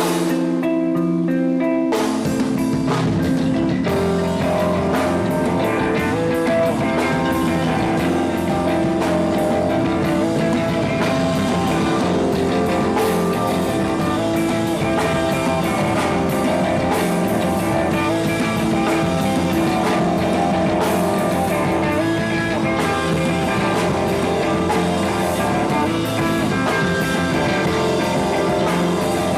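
Live rock band playing loudly. Guitar chords ring out on their own, then the drum kit and full band come in about two seconds in.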